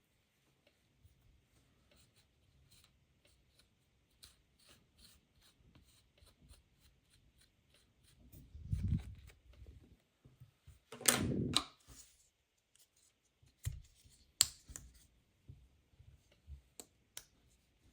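Handling noises: scattered light clicks and rustles, with a dull knock about nine seconds in and a louder rustling scrape a couple of seconds later, then a few sharp clicks.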